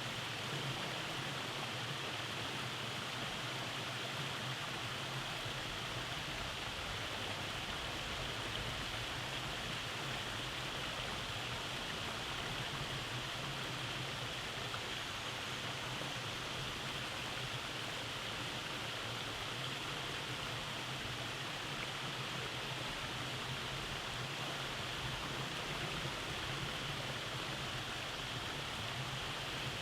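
Rainforest stream running over cascades: a steady rush of water without pause or change.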